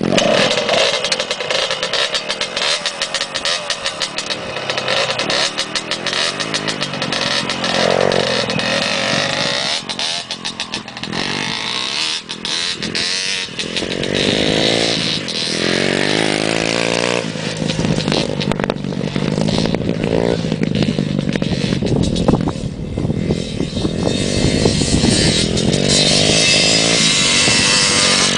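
Motocross bike engine running, revved up and down repeatedly, with pitch rising and falling.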